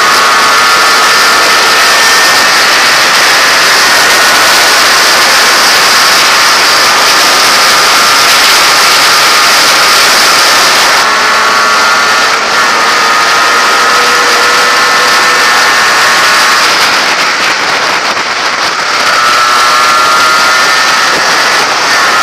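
Yamaha RXS100 two-stroke single-cylinder engine running under way on the road, heard through heavy wind rush over the microphone. The engine note eases off for a couple of seconds about three-quarters of the way through, then climbs again.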